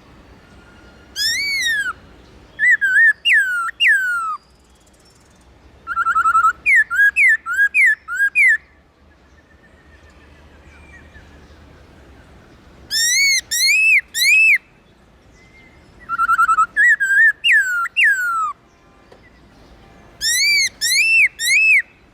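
Black-throated laughingthrush singing: loud, clear whistled phrases of slurred rising and falling notes, given in about six bursts of one to two seconds with short pauses between.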